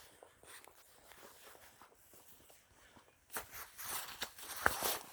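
Footsteps on the walk, faint and ticking at first, then louder, scratchy scuffing steps from a little past the halfway point.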